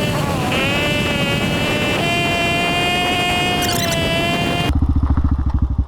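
Hawk 250 single-cylinder dual-sport motorcycle riding along, its engine note steady over wind rush, dipping in pitch just after the start and stepping up again about two seconds in. Near the end the wind noise stops suddenly and the engine is heard idling with an even, low pulsing beat.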